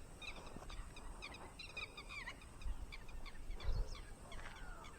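Birds chirping and calling, many short high calls overlapping one another, with a few low rumbles.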